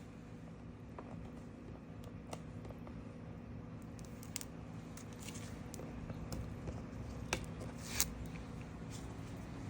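Aprilia RSV4's V4 engine idling, faint and muffled, as a steady low hum, with scattered small clicks and rustles of handling; the loudest click comes near the end.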